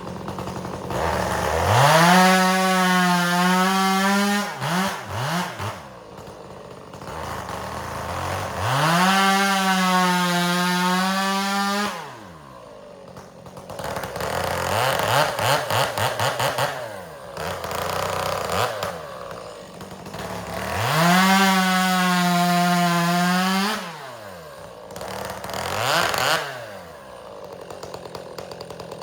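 Two-stroke chainsaw revved to full throttle three times, each held for about three seconds as it cuts through firewood rounds, dropping back to idle between the cuts, with a short blip of throttle near the end.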